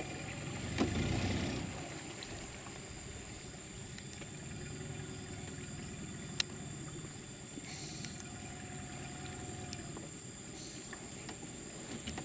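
Boat engine idling steadily, with a single sharp click about six seconds in.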